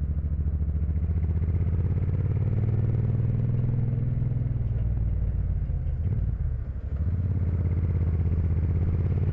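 Suzuki Boulevard C1500's V-twin engine running under way, with a steady pulsing note. The engine note rises slightly a couple of seconds in, dips briefly about six and a half seconds in, then picks back up.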